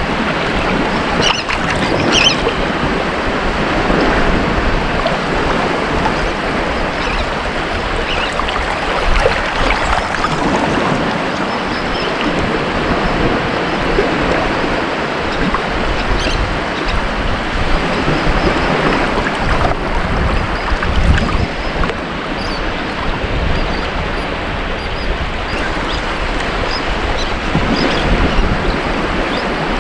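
Ocean surf: waves breaking and washing on a beach, a continuous rushing wash that swells and eases every few seconds.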